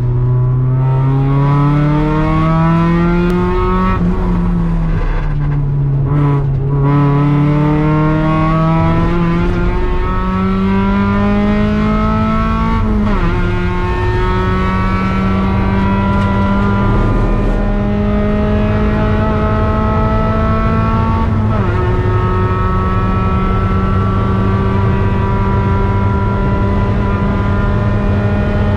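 NB Mazda Miata's four-cylinder engine under hard acceleration on track, heard from inside the cabin. It revs up and falls back for a corner, then climbs through the gears, its pitch dropping sharply at upshifts about 13 and 21 seconds in and then climbing slowly again.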